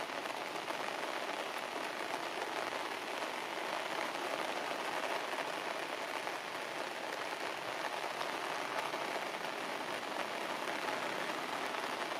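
Steady rain falling on leaves and grass.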